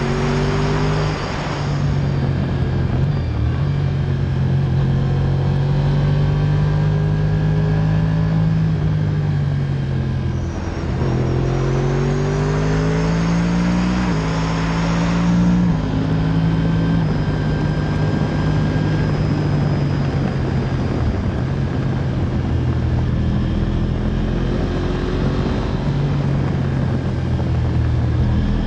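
Motorcycle engine running under way, its revs climbing and dropping with gear changes, mostly in the middle, over a steady rush of wind noise.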